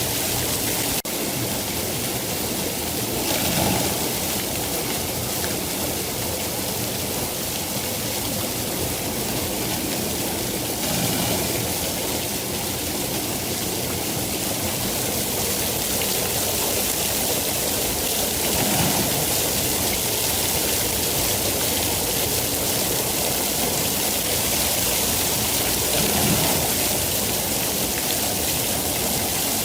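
Steady rain falling, an even hiss strongest in the high end, with slight swells every few seconds.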